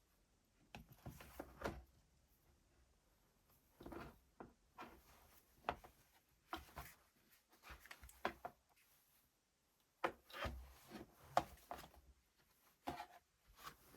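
Faint, irregular handling noises: short clicks and rubs of parts and tools being moved and fitted, in groups with pauses between.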